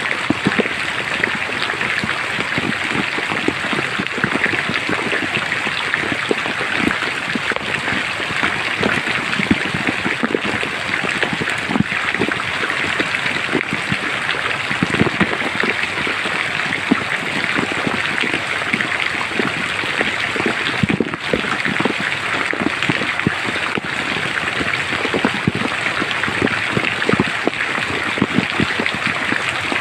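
Steady heavy rain falling through forest foliage, a continuous hiss dotted with countless individual drop hits.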